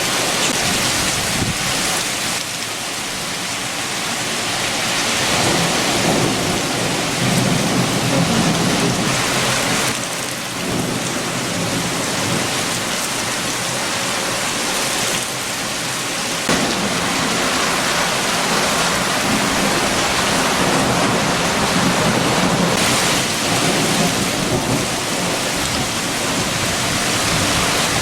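Heavy rain falling steadily with strong wind, the noise swelling and easing in long surges, with a low rumbling in the stronger surges.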